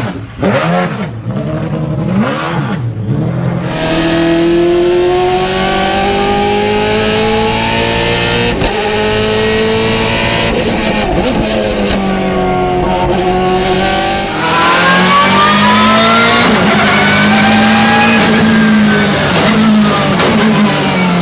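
BMW M3 GTR race car's P60 4-litre flat-plane V8 at high revs, its pitch climbing and dropping back several times as it accelerates and shifts. About fourteen seconds in the note jumps abruptly to a louder, brighter engine sound.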